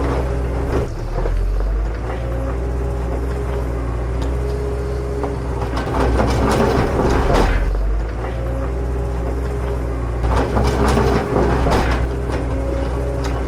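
Small motor of a miniature model vehicle running steadily with a hum, with louder rattling stretches about six seconds in and again about ten seconds in.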